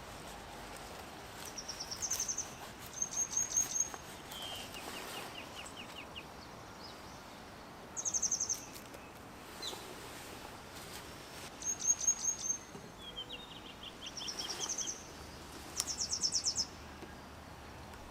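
Small songbirds singing short, rapid trills, repeated every second or two, some pitched higher and some lower, over a faint steady outdoor background.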